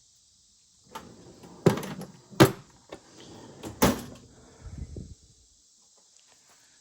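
Hard objects being handled: rubbing and clattering with three sharp knocks, the loudest about two and a half seconds in, dying away about five seconds in.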